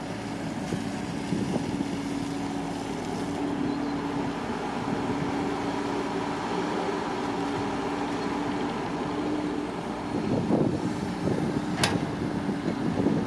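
An engine running steadily with a constant hum, turning rougher and louder in the last few seconds, with one sharp click near the end.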